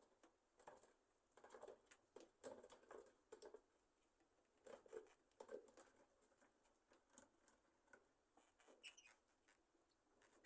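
Faint, scattered rustles and small clicks from a colony of budgerigars shifting about on their perches, with one brief soft chirp near the end.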